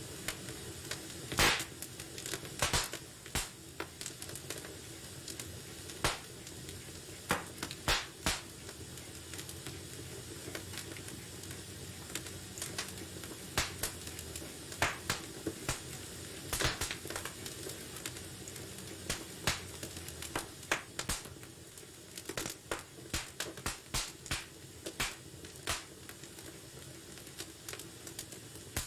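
Wood fire burning in a fireplace: a soft steady hiss with irregular sharp crackles and pops, coming thicker toward the end.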